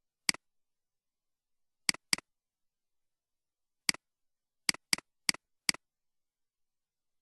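Computer mouse clicking: eight sharp clicks, each a press followed closely by a softer release, with two quick pairs of clicks about two and five seconds in and dead silence between them.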